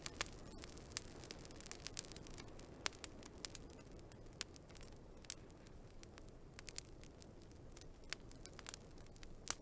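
Wood fire crackling: irregular sharp pops and snaps, sometimes several in quick succession, over a steady low background noise.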